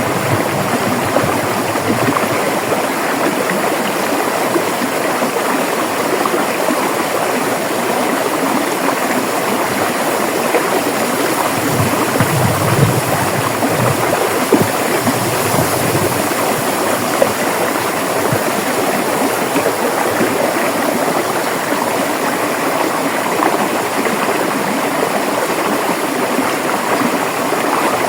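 A river flowing: a steady rush and babble of water over the stream bed, with occasional deeper gurgles.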